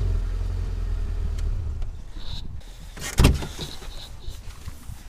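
A car engine's low rumble dies away over the first two seconds. About three seconds in comes a single loud thump, followed by a few lighter knocks.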